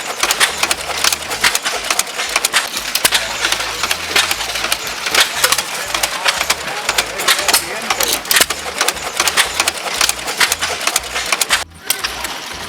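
Hit-and-miss stationary engines running, with a busy, irregular clatter of sharp clicks and uneven low thumps from their firing strokes. Voices murmur in the background.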